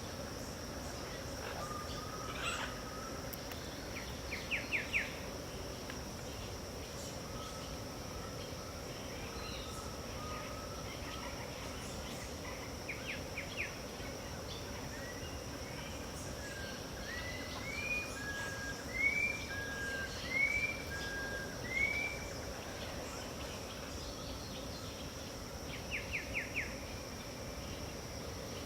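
Wild birds calling over a steady, high-pitched insect drone. Quick bursts of four or five rapid notes come several times, with soft whistles between them, and a run of five rising calls comes a little past halfway.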